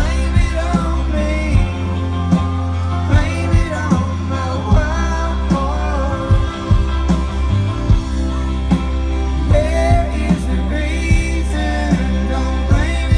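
Live rock band playing a song with a singer's melody over a steady drum beat and bass.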